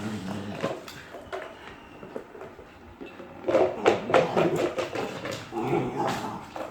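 Labrador puppy vocalising in play: a quieter start with faint clicks, then a run of short, rough yelps and whines from about halfway in.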